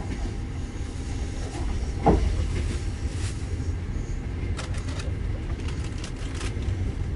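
Train running on the rails: a steady low rumble, with a sharp knock about two seconds in and a run of quick clicks around five to six seconds.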